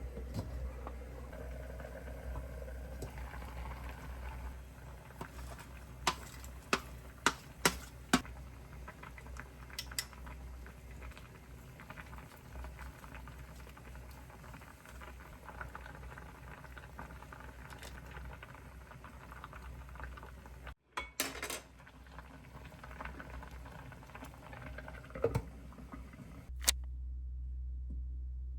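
Pot of crab and soybean-paste stew bubbling steadily, with a few sharp clinks of utensils against cookware.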